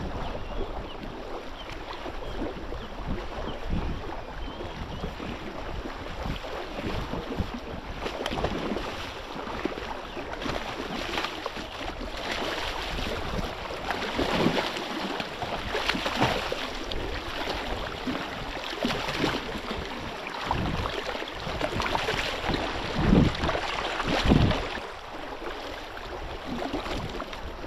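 Wind buffeting the microphone over water lapping against a small boat, with a couple of louder, sudden bursts near the end.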